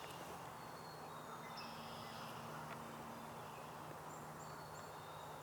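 Faint woodland ambience with distant songbirds calling: scattered thin, high whistled notes and short chirps, over a low steady hum.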